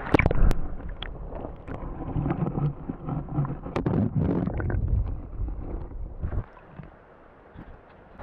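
Wind buffeting the microphone outdoors, with loud knocks and rubbing from handling in the first half second and again about four seconds in. It quietens down markedly for the last couple of seconds.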